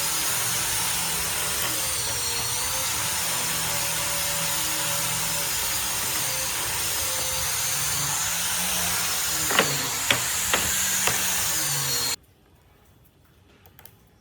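A power tool running steadily on wood, its pitch wavering slightly as the load changes, with four sharp knocks a little after halfway. The tool sound cuts off abruptly about two seconds before the end, leaving only faint background.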